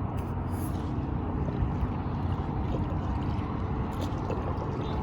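Water splashing and gurgling around a kayak as it is paddled by hand toward shore, with the fin drive pulled up, over a steady low noise.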